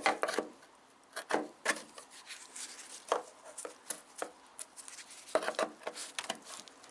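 Old body filler being scraped and picked out of a car's rusty wheel arch with a hand tool: irregular scrapes with short taps and knocks.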